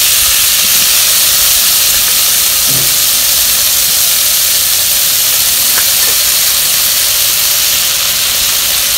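Rice and diced tomato frying in oil in a pot on a gas burner: a steady, loud sizzling hiss.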